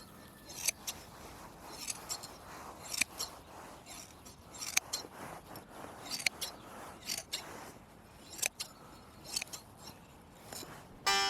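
Hand blade shears snipping through thick sheep's wool, with irregular sharp snips about once a second.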